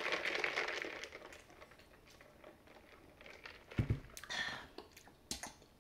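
Close-up chewing of a mouthful of jajangmyeon noodles, a crackly wet rustle in the first second. A soft low knock comes about four seconds in, with a few light clicks after it.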